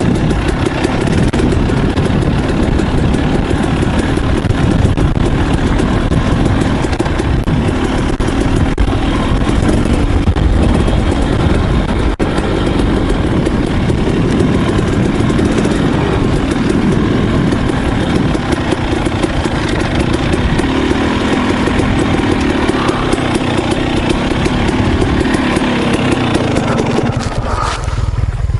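KTM 300 XC two-stroke dirt bike engine running hard on a trail ride, its pitch rising and falling as the throttle opens and closes, with a brief drop-off about a second before the end.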